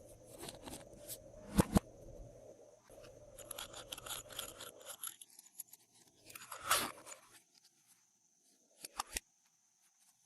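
Glossy slime being mixed and squeezed by hand: irregular sticky clicks and crackles. Two sharp pops come a little under two seconds in, and a louder burst about six and a half seconds in.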